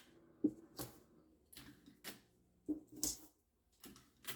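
Paper and tape being handled while a paper pattern is taped together: a scatter of short taps and rustles, about eight in four seconds.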